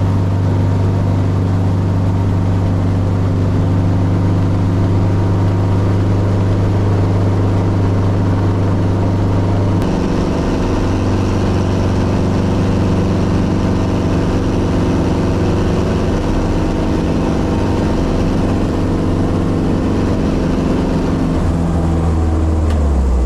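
Helicopter engine and rotor running steadily. The tone shifts about ten seconds in, and the lowest notes drop in pitch near the end.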